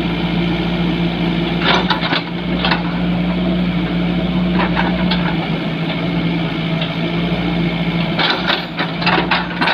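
Engine running steadily at a constant speed, with scattered knocks and clanks over it, most of them near the end.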